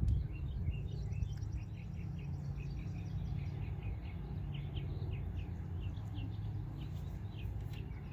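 2012 Toyota RAV4 engine idling steadily while warming up its freshly refilled transmission fluid, with birds chirping repeatedly in the background.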